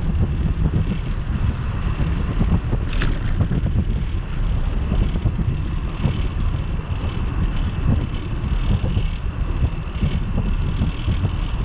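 Wind buffeting the microphone of a bike-mounted camera while riding a bicycle, a steady rumble, with a short sharp sound about three seconds in.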